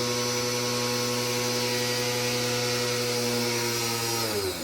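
Lotus LTPW 1400C 1400-watt electric pressure washer motor running with a steady hum while drawing water up from a bucket, then winding down to a stop near the end, its pitch falling.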